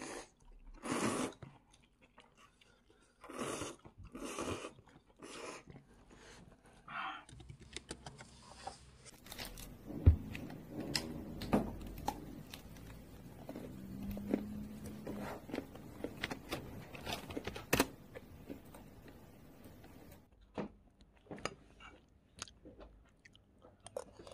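A person chewing and biting food close to the microphone, with crunching strokes at the start and a few sharp clicks later on.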